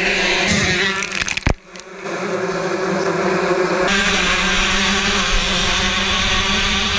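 125cc two-stroke motocross bike engines running at race speed with a steady, buzzing engine note. The sound breaks off with a click and a brief dip about a second and a half in, then returns.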